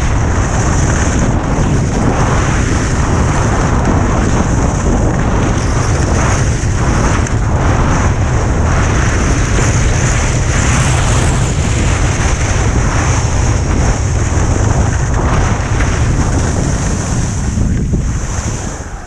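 Heavy wind rushing and buffeting on the camera's microphone during a fast downhill ski run, with the steady hiss of skis sliding on snow beneath it. It dies down just before the end.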